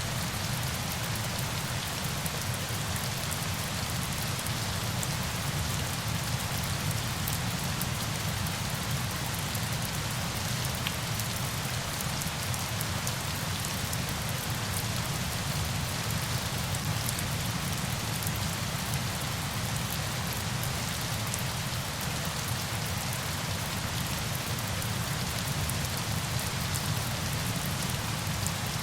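Steady rain falling: a dense, even patter with a low rumble underneath.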